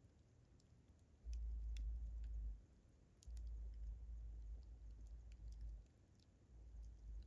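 Campfire crackling: sparse, sharp pops and snaps from burning wood. A low rumble comes and goes in stretches of a second or two, louder than the crackle.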